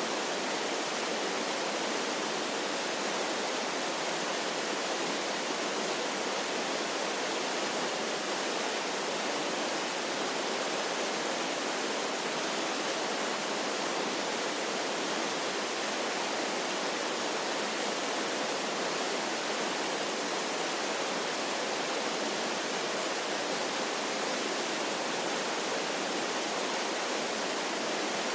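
Waterfall sound effect: a steady, even rush of falling water with no breaks or changes, thin in the deep bass.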